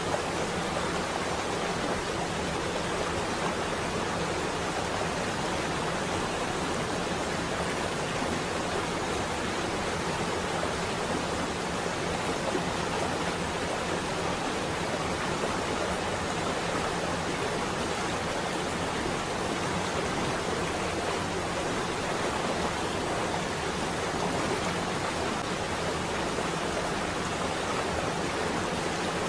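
Rain on a window: a steady, even hiss with no rumbles or breaks.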